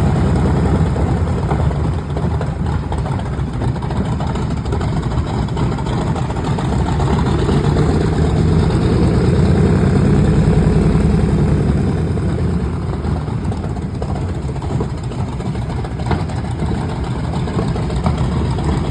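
TBM Avenger's Wright R-2600 twin-row radial engine running on the ground at low power with an even low beat. It picks up somewhat in the middle, then settles back.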